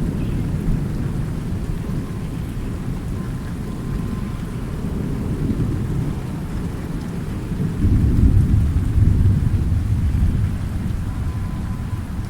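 Thunder rumbling continuously under steady rain, with a louder swell of thunder about eight seconds in.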